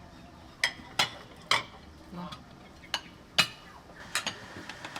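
A handful of sharp, irregularly spaced clicks and knocks of hard objects, about six in all, the loudest about one second and three and a half seconds in.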